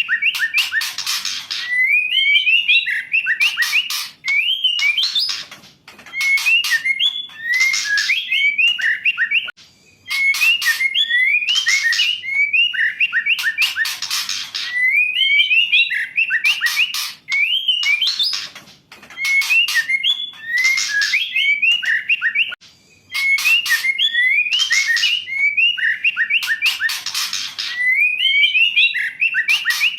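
Female white-rumped shama (murai batu) calling: short phrases of whistled, gliding notes, each followed by a harsh rasping burst, repeated every two to three seconds.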